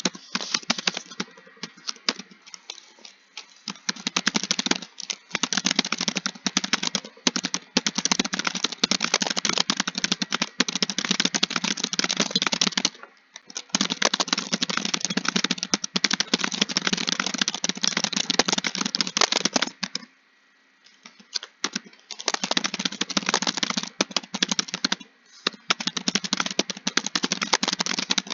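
Fast, continuous typing on a computer keyboard: a dense stream of key clicks. It stops for short pauses about halfway through and again about two-thirds through.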